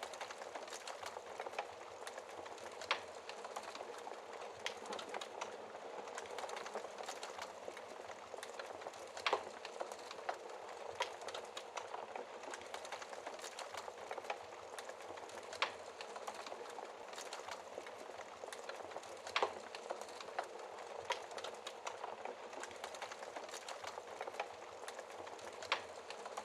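Wood fire crackling steadily in a fireplace, a dense run of small crackles with a few sharper pops from the burning logs every several seconds.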